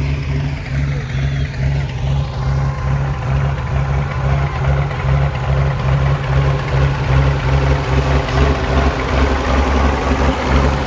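Tractor engine idling steadily with a low, even pulse.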